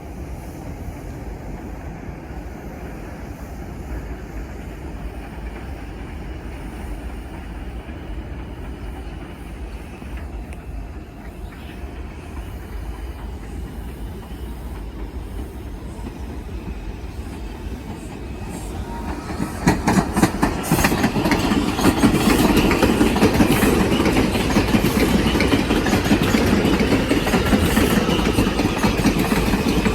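New York City subway train on the elevated Jerome Avenue line: a steady low rumble that becomes much louder about two-thirds of the way in as the train comes through the station, its wheels clattering quickly over the rail joints.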